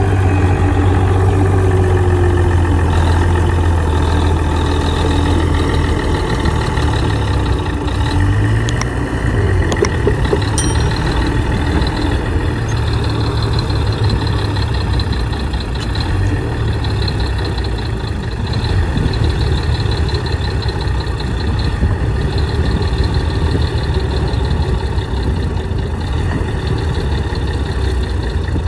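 Heavy diesel engine of earthmoving machinery running steadily. Its deep drone is strongest for the first six seconds, then eases a little, and a faint high whine runs over it from about ten seconds in.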